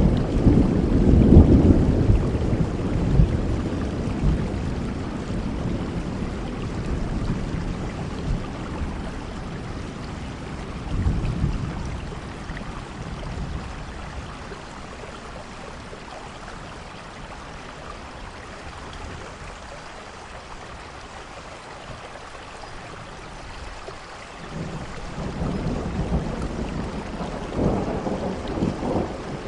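Steady rainfall with low rolling thunder. A rumble is loud at first and fades away over about ten seconds, a brief rumble comes near the middle, and another swells up near the end.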